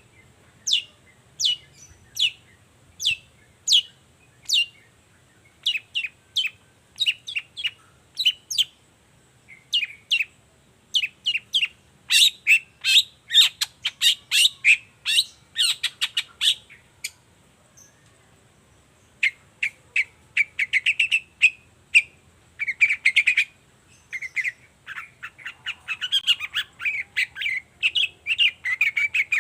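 Long-tailed shrike calling: a string of sharp, quick, high notes, at first spaced about one or two a second, then in fast runs. After a short pause about two-thirds of the way in, it turns to harsher, buzzy chattering.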